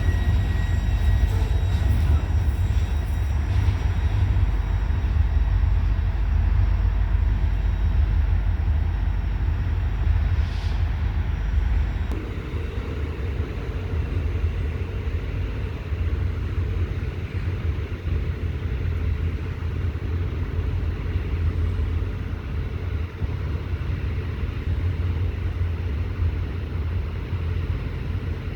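Norfolk Southern freight train rolling past, a steady low rumble of its cars on the rails; the sound shifts and drops a little about twelve seconds in.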